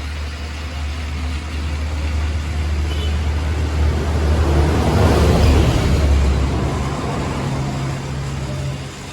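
A motor vehicle with a steady low engine hum. The noise swells to its loudest about five seconds in and then fades, like a vehicle driving past.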